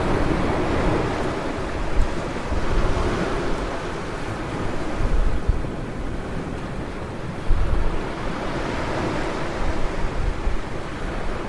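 Ocean surf breaking and washing on a beach in swells, with wind gusting on the microphone.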